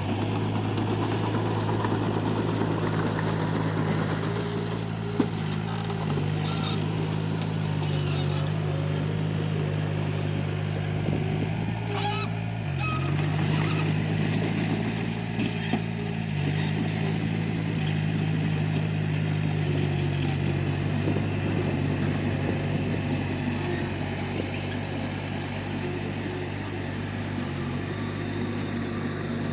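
Komatsu D31P bulldozer's diesel engine running steadily under work, its pitch dipping briefly a few times as it takes load, with a couple of sharp knocks.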